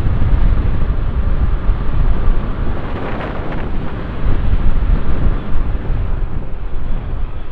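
Strong wind buffeting the microphone on a moving motorcycle, a heavy low rumble with the bike's engine and road noise underneath.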